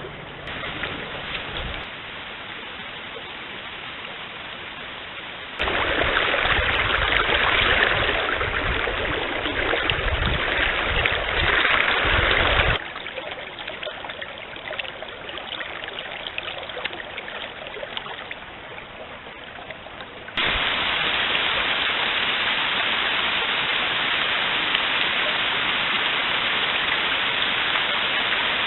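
Running water of a forest stream: a steady rushing noise that jumps abruptly louder or quieter several times, about six, thirteen and twenty seconds in.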